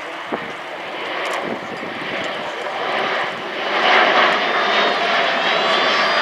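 Airbus A400M Atlas turboprop engines running in flight, growing louder as the aircraft comes closer, with whining tones that bend in pitch. The sound swells to its loudest from about four seconds in.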